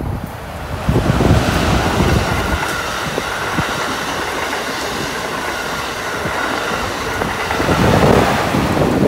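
Amtrak Acela high-speed trainset passing close by at speed: a steady rush of wheels on rail and air that builds about a second in and is loudest as the rear power car goes by near the end.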